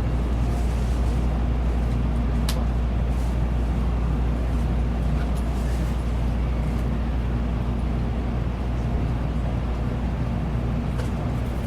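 Shinkansen bullet train running, heard inside the passenger cabin: a steady low rumble and hum with a few faint ticks.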